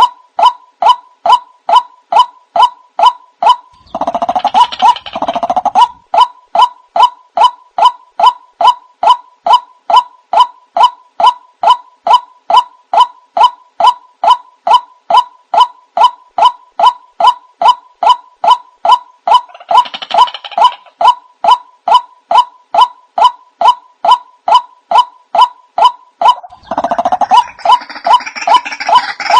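White-breasted waterhen calling: a short, evenly repeated note about two to three times a second, with harsher croaking bursts joining in about four seconds in, around twenty seconds and near the end.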